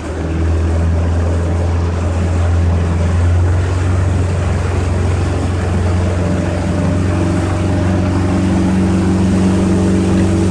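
Yamaha 115 hp two-stroke outboard motor running steadily as the boat cruises, a loud low drone. The engine note changes slightly about seven seconds in.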